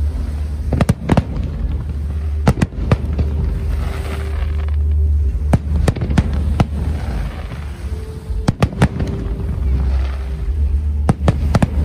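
Aerial fireworks bursting: sharp bangs, often in quick pairs, every second or few, with crackling between them over a steady low rumble.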